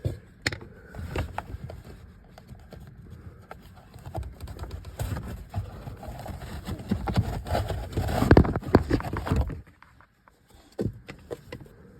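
Clicks, knocks and scraping of the Tesla Model Y's plastic cabin air filter cover and trim being worked loose by hand, with its clips popping free. The handling gets busiest and loudest near the end, then pauses briefly before a few more clicks.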